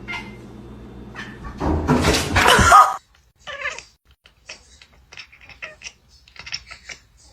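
A domestic cat gives one loud, drawn-out cry of about a second, ending near three seconds in, followed by faint scattered small sounds.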